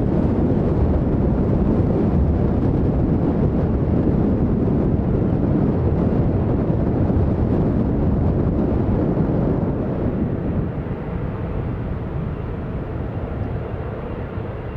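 Jet engines of an Air France Boeing 777-300ER, its twin GE90 turbofans, giving a loud, steady rumble as it arrives on the runway. The rumble eases about ten seconds in.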